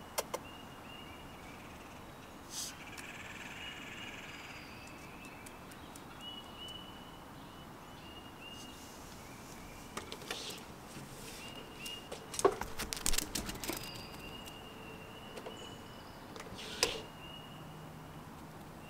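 Quiet woodland-edge ambience: faint birds calling in short, high notes over a low background hush, with a few soft clicks scattered through the middle and near the end.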